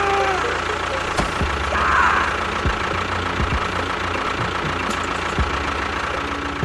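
Small motor of a DIY model construction vehicle running steadily.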